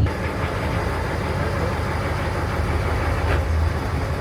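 Boat engine running steadily, a low drone under a steady hiss.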